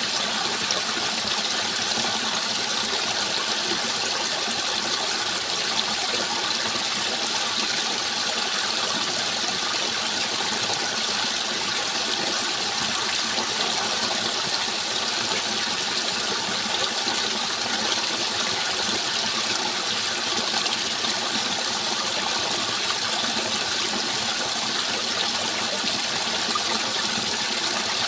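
Steady rushing water, running evenly and unchanging throughout.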